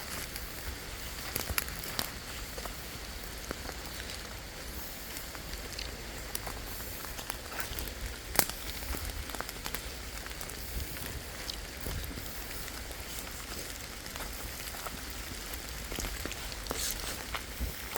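Rain pattering steadily, with scattered single drops tapping and one sharper tap about eight seconds in.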